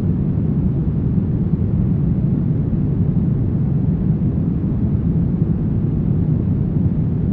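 Steady brown noise: an even, deep rumbling hiss weighted to the low end, unchanging throughout.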